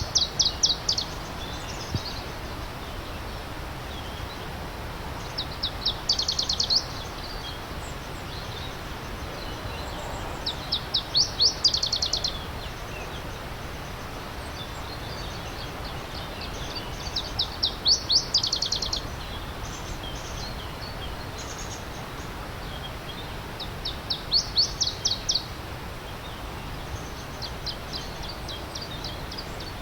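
A songbird repeating a short trill of rapid, high, sweeping notes, about once every six seconds, over the steady rush of a stream.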